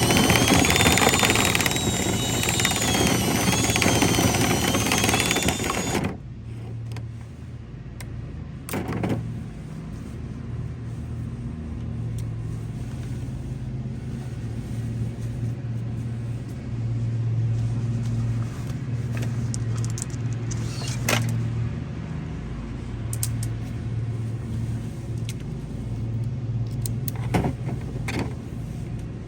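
A loud motor runs with a wavering high whine for about six seconds, then cuts off abruptly. A quieter, steady low hum with scattered clicks follows.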